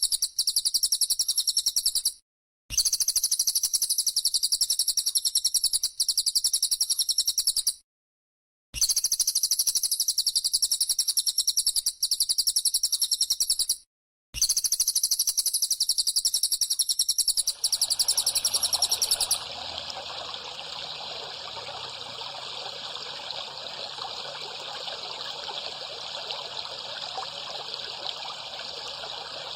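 A high-pitched, very rapid, dense buzz, the bren cicada of a songbird-training recording, repeating in stretches cut by three short silences. About two-thirds of the way in the buzz ends and trickling water takes over, steady to the end.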